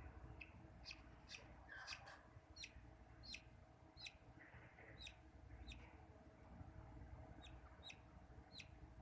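Pet budgerigar chirping faintly: about a dozen short, high chirps that each drop quickly in pitch, coming at uneven intervals.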